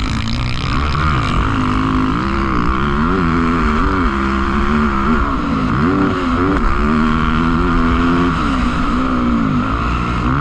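Motocross dirt bike engines revving, the pitch climbing and dropping again and again as the bikes accelerate and shift or brake around the track, over a steady hiss.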